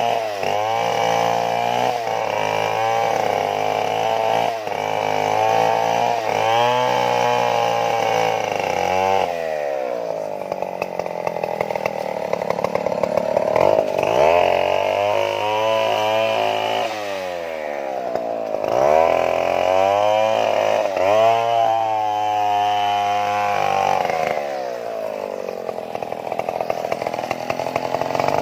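Stihl chainsaw running at high revs, its pitch wavering as it works through wood. The revs fall away about nine seconds in, climb back a few seconds later, and dip again around twenty-four seconds before picking up once more.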